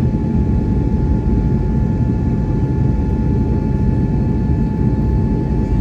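Steady cabin noise of an Airbus A321neo heard from inside the cabin: a low, even rumble of engines and airflow with a few faint steady whining tones over it.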